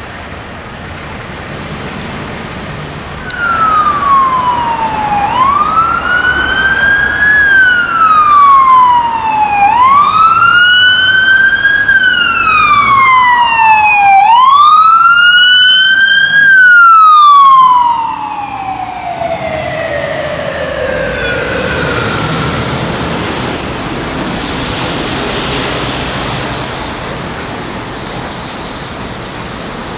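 Emergency vehicle siren wailing, its pitch sweeping down and back up in cycles of about four seconds, then a long falling sweep as it fades away about halfway through. A fainter siren follows briefly over traffic noise.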